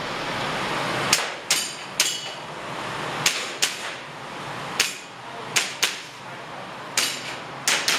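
Airsoft pistol shots during a timed IPSC-style stage: about a dozen sharp cracks at uneven spacing, with some hits ringing briefly off metal targets.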